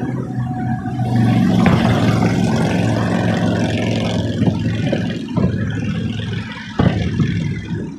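A vehicle engine running steadily, with a few sharp bangs of fireworks, the loudest about seven seconds in.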